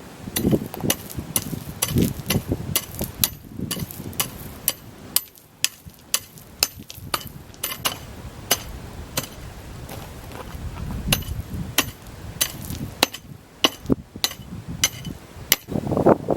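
A hammer tapping on paving stones, irregular sharp knocks, often two or three a second, with duller thuds in the first couple of seconds and again around the middle.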